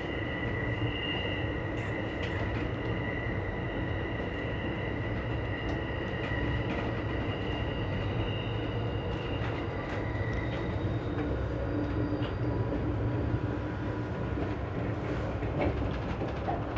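Passenger train rolling along, heard from inside the coach: a steady low rumble of wheels on rail with scattered clicks and knocks. For the first ten seconds or so a steady high squeal, typical of wheel flanges grinding on a curve, rides over it and then fades out.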